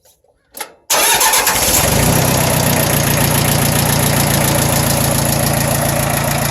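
Mitsubishi MT1801D compact tractor's 25 hp four-cylinder diesel starting suddenly about a second in, then settling into a steady idle. It runs really smooth.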